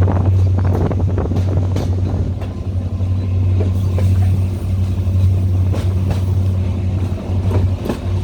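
Class S13 diesel multiple unit train running with a steady low engine drone, with irregular clicks and knocks from the wheels on the track.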